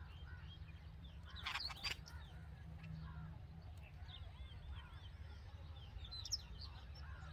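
Red-vented bulbuls chirping: a run of short, high, repeated chirps with a louder, harsher burst about one and a half seconds in, over a low steady rumble.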